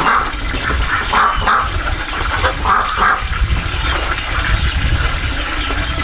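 Domestic animals calling in a string of short cries, with a steady low rumble underneath.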